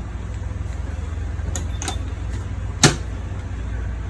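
Siemens front-loading washing machine being started for a test run after a door lock replacement: a few sharp clicks, the loudest about three seconds in, over a steady low hum.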